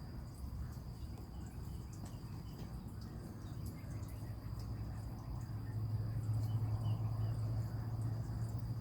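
Crickets trilling steadily in one high, even tone, over a low steady hum that grows louder about halfway through.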